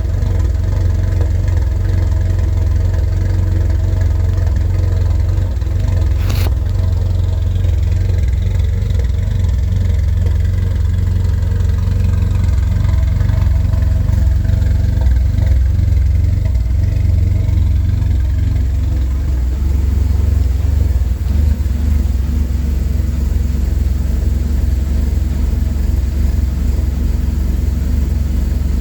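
1988 Porsche 944 Turbo's turbocharged 2.5-litre four-cylinder engine idling steadily while warming up after a cold start, with one sharp click about six seconds in.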